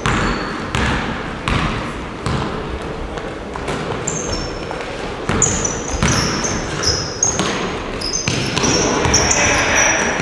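Basketballs being dribbled on a gym floor, a run of bounces echoing in a large hall, with short high sneaker squeaks on the court in the second half.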